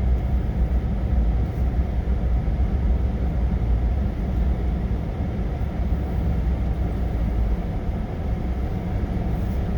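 Truck engine and drivetrain running with a steady low rumble as the truck is driven slowly, heard from inside the cab; the rumble eases slightly about three-quarters of the way through.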